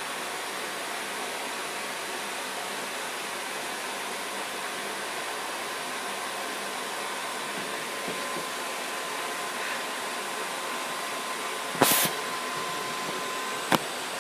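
Vacuum cleaner running with a steady rushing noise, a faint steady whine joining about halfway. A loud knock about twelve seconds in and a sharp click near the end.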